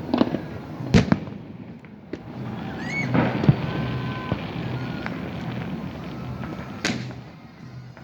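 Fireworks going off: sharp bangs, the loudest about a second in, with more near the middle and near the end, and a short rising whistle just before the middle. Between the bangs there is continuous crackling and popping.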